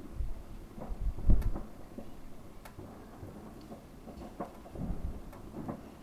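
Fireworks going off: a string of low booms, the loudest about a second and a half in, with sharp cracks in between.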